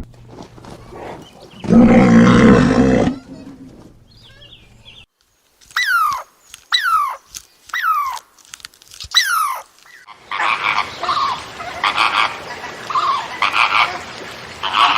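A series of different animal calls: a loud, pitched call lasting about a second and a half near the start, then five short calls a second apart that each fall in pitch, then a dense stretch of many overlapping chattering calls.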